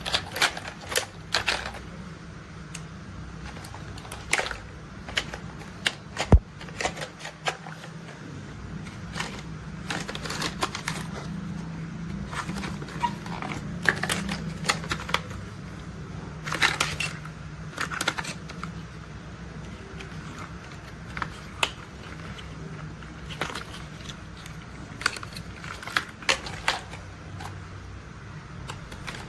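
Plastic toy construction vehicles being handled, giving irregular clicks and taps, a few sharper than the rest, over a low steady hum.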